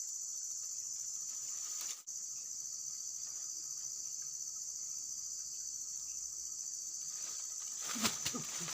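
Steady, high-pitched chorus of insects, unbroken except for a brief dropout about two seconds in. A few clicks and knocks come near the end.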